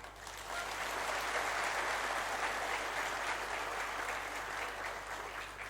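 Audience applauding after a point in a speech, the clapping swelling about half a second in, holding steady and fading near the end.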